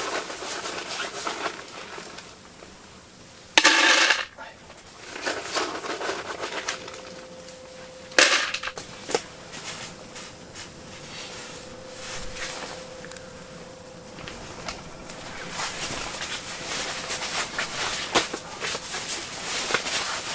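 Dry dog food poured into a bowl: a loud rattling burst about four seconds in, a sharper clatter about eight seconds in, and light clicks and clatters of the bowl and kibble throughout.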